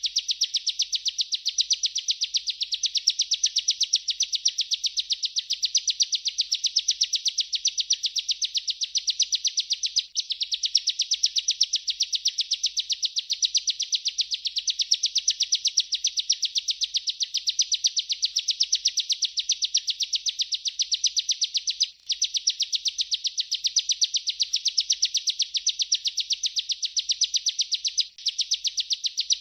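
Bar-winged prinia (ciblek) singing its continuous rolling song: a rapid, even stream of high chirps, broken by brief pauses three times.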